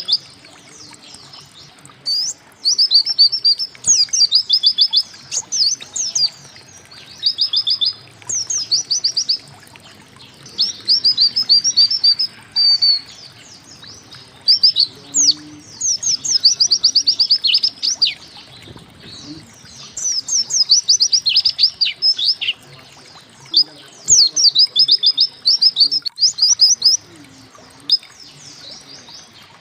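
A white-eye (pleci) singing: repeated phrases of quick, high, sharp 'wit wit' notes, each phrase a second or two long, separated by short pauses.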